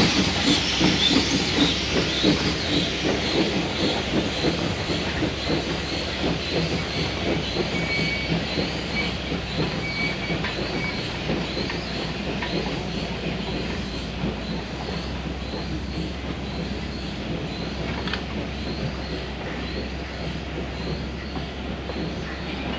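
A train rolling along the track with a steady clickety-clack of wheels over rail joints and some wheel squeal, slowly fading as it moves away.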